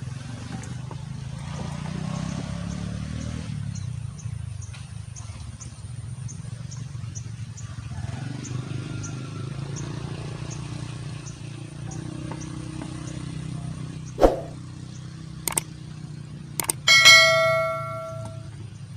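A steady low hum with faint, regular high ticking. Near the end come a few sharp clicks, then one loud metallic ding that rings and fades over about a second.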